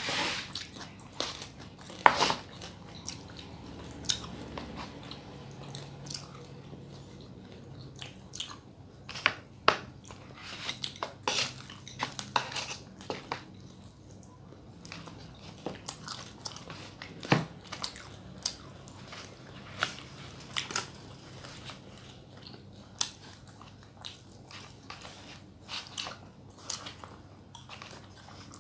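A person eating close to the microphone: irregular chewing and biting with sharp wet mouth clicks, the loudest about two seconds in.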